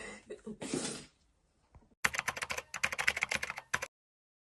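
A brief rustle, then a rapid run of sharp clicks for about two seconds that cuts off suddenly.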